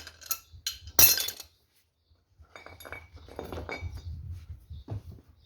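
Metal clinking and clattering as tools or parts are handled, with one loud clank about a second in and a run of lighter rattling clicks in the second half.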